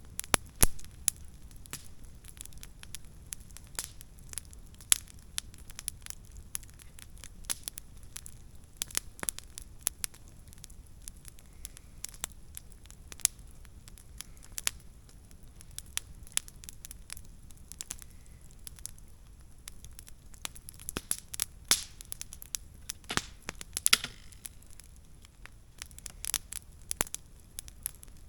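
Wood fire crackling, with irregular sharp pops and snaps from burning logs and a few louder pops among them.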